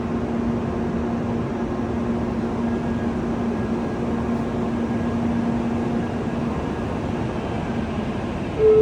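Shinkansen train at the platform, a steady rumble with a low hum that fades out about six and a half seconds in. Just before the end a louder sound starts, with tones stepping upward.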